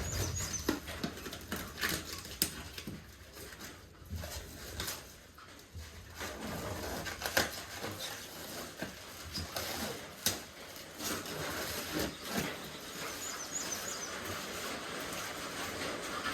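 Rubbery Plasti Dip coating being peeled off a truck's painted panel by hand: scattered light clicks and snaps, then from about six seconds in a steady crackling tear as the film comes away. Faint high bird chirps come in twice.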